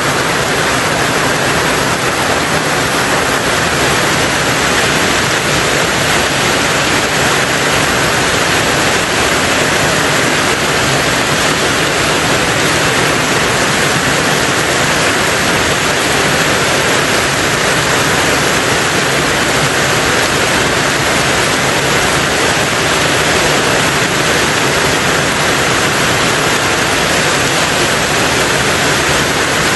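Rain falling steadily on a tin roof: a dense, even hiss with no breaks or separate drops standing out.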